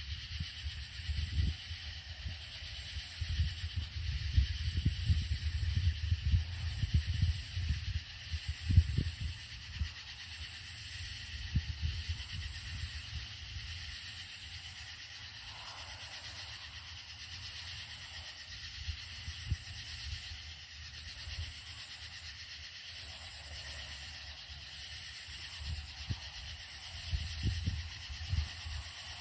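Cicadas chorusing in a high, pulsing buzz that swells and fades about once every two seconds, over a steady hiss, with low rumbles of wind or handling on the microphone in the first half and near the end.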